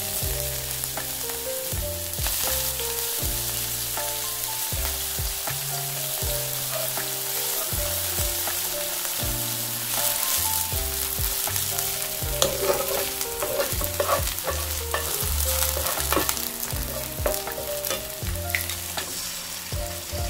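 Minced green onion sizzling in hot oil in a non-stick frying pan as it fries toward golden brown. It is stirred with a wooden spoon, giving scattered clicks and scrapes against the pan.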